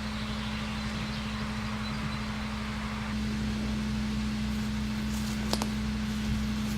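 Steady low mechanical hum, growing a little louder about three seconds in, with one sharp click about five and a half seconds in.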